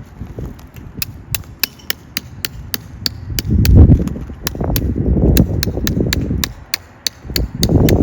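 Wind buffeting the microphone in low rumbling gusts, with a quick, fairly regular series of sharp clicks, about four a second, starting about a second in.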